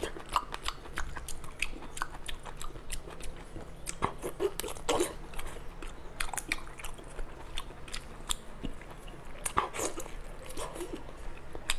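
Close-up eating sounds of a person biting and chewing a whole sauced octopus: irregular wet mouth clicks and smacks several times a second, with a few louder bites about 5 and 10 seconds in.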